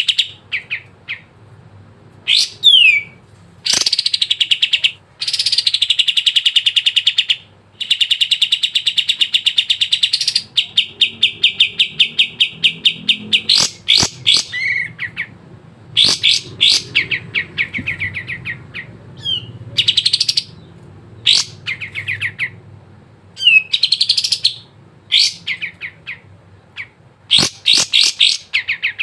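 Kapas tembak bird singing in full voice: long, rapid rattling trills and short whistled notes, repeated phrase after phrase with brief pauses between.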